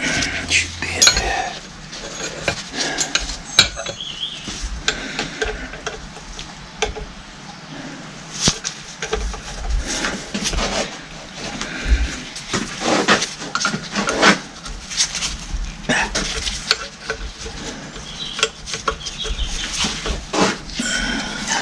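Metal hand tools and hydraulic pump parts clinking and knocking as they are handled and worked on, in scattered irregular clicks.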